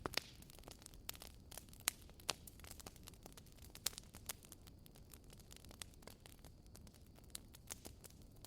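Wood fire crackling in a fireplace: irregular sharp pops and snaps over a soft, steady low rumble of the flames, with the loudest snaps near the start and about two seconds in.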